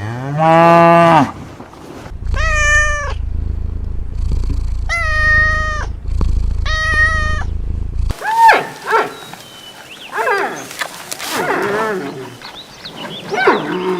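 Animal calls. A low call in the first second is followed by three drawn-out, steady-pitched meow-like calls over a low hum. From about 8 seconds on comes a quick run of short, squeaky calls that bend in pitch.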